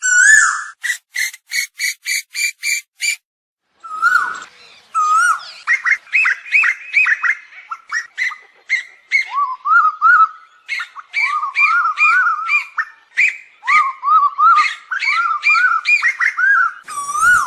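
Asian koel calls: a quick run of about eight short repeated notes, a brief pause, then a busy stream of rapid rising-and-falling whistled notes that overlap as if from more than one bird.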